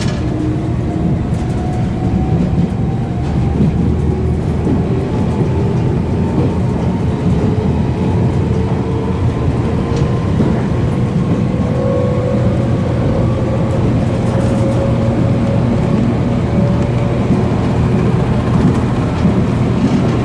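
Train running, heard from inside a passenger car: a steady low rumble with a faint tone that slowly rises in pitch.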